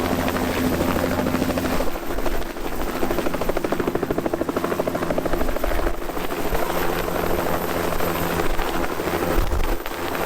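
Helicopter in flight, its engine and rotor running steadily with a fast, even rotor beat; the engine tone shifts about two seconds in.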